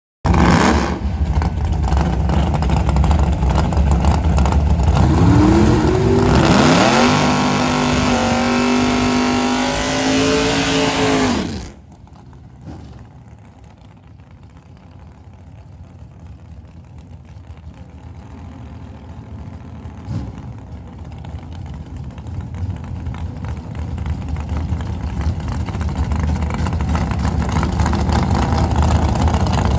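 Drag racing cars running at full throttle down the strip, engine pitch climbing and then holding, cut off abruptly about twelve seconds in. A quieter engine rumble follows and builds steadily louder.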